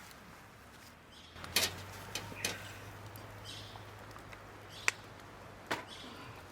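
Wood fire crackling, with a handful of sharp pops a second or so apart, the sharpest about a second and a half in and again near five seconds.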